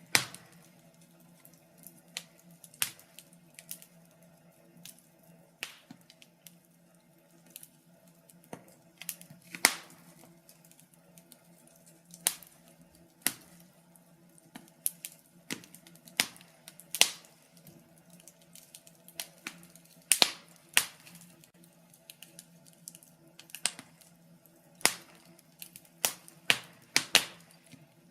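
Wood burning in a fireplace, crackling with irregular sharp pops and snaps, roughly one or two a second, some much louder than others.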